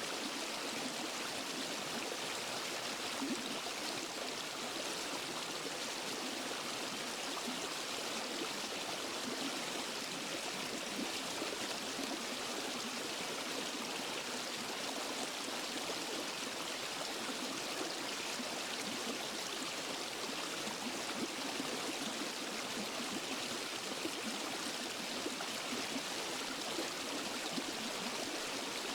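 Water from a small waterfall and forest stream rushing and splashing over rocks, a steady, even rush of flowing water.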